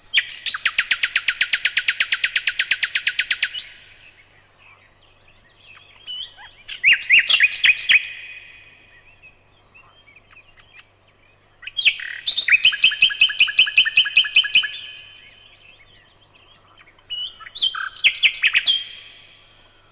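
Nightingale singing in four separate phrases with pauses between them; the first is a long run of rapid, evenly repeated notes, about ten a second, lasting over three seconds, and the later phrases are shorter mixes of clicks and whistled notes.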